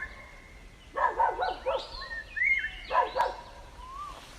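Birds calling: clusters of quick pitched call notes about a second in and again near three seconds, with higher gliding, whistled notes between them.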